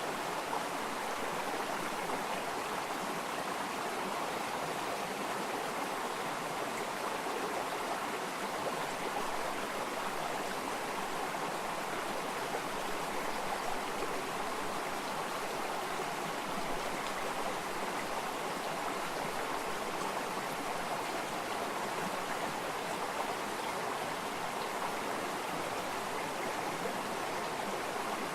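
Flowing water: a stream running steadily over stones, an even rushing with no breaks.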